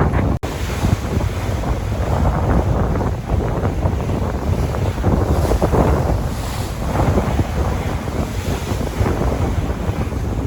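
Sea waves washing and surging, with wind buffeting the microphone. The sound breaks off for an instant just under half a second in.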